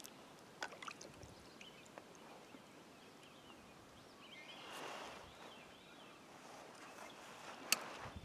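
Kayak paddle dipping into calm water in slow, quiet strokes, with water trickling off the blade and a few small knocks. A fuller swish of water comes about five seconds in, and a sharp click near the end.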